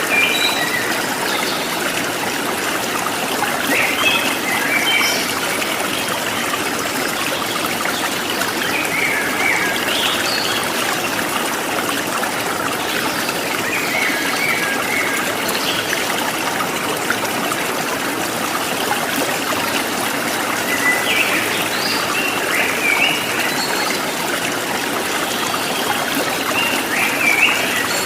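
Running water of a small stream trickling steadily, with short chirping birdsong phrases coming in every few seconds, most around 4, 10, 14 and 21 to 23 seconds in and near the end.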